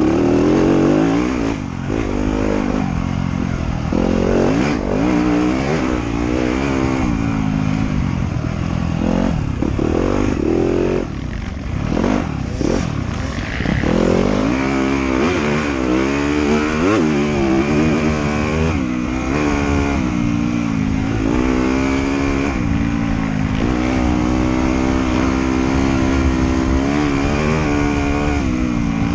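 Trail motorcycle engine under way, revving up and down repeatedly as the rider works the throttle. It settles into a steadier pull about halfway through.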